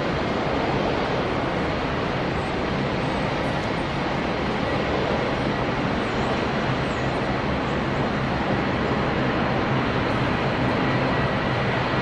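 Boeing 787 Dreamliner's jet engines during landing: a steady, even rushing roar with a faint thin whine running through it.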